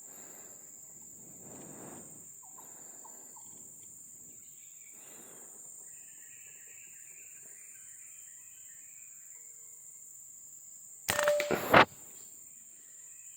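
Steady high-pitched insect drone, with soft rustling in the first few seconds. About eleven seconds in, a loud, sharp noise lasts under a second.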